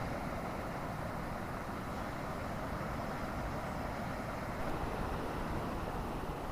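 Strong wind and heavy rain, a steady even rushing noise with a low rumble and no single events standing out.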